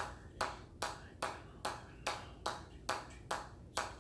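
Hammer striking metal in a steady rhythm, about two and a half blows a second, each blow ringing briefly.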